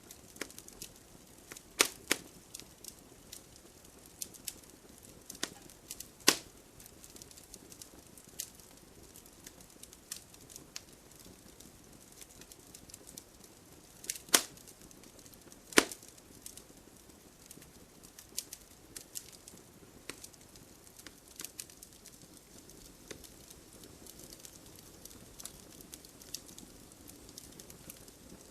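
Wood fire crackling in a fireplace: a steady scatter of small snaps and pops over a faint hiss, with a handful of louder sharp pops, two close together about two seconds in and others around six, fourteen and sixteen seconds.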